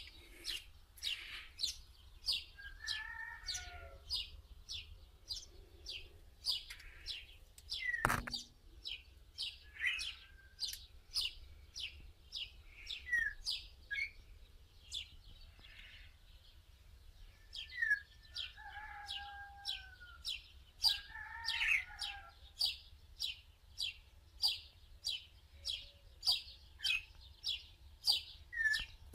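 A bird chirping over and over, about two short chirps a second. Other bird whistles rise and fall in pitch now and then, and a single knock comes about eight seconds in.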